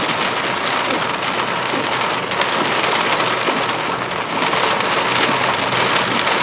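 Heavy wind-driven rain from a severe thunderstorm pelting a surface in strong wind, a loud, steady, dense hiss.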